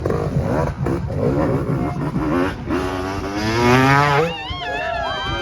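Dirt bike engines revving, one climbing steadily in pitch for about a second and a half in the middle. Wavering high tones follow near the end.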